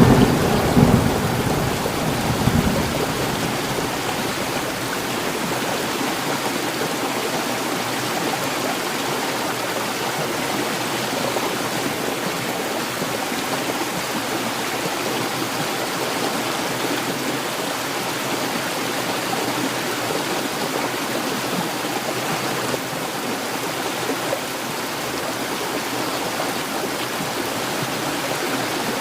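Heavy rain falling steadily, with the tail of a thunderclap rumbling away over the first two or three seconds.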